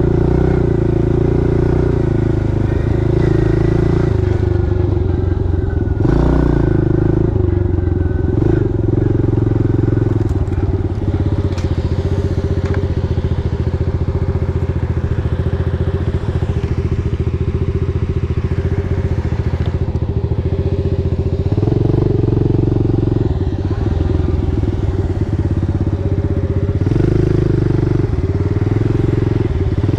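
Pit bike's small single-cylinder engine running while riding, its engine speed rising and falling several times as the throttle is worked.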